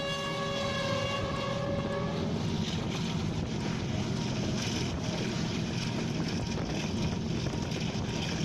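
A train horn sounds one long held note that stops about two seconds in, over the steady rumble and rattle of a train running on the rails, heard from aboard the train.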